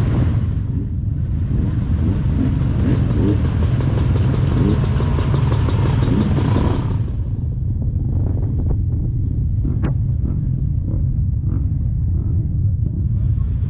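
Kymco Maxxer 300 quad's engine running with a steady low rumble. A rushing hiss over it stops about seven seconds in, leaving the engine alone.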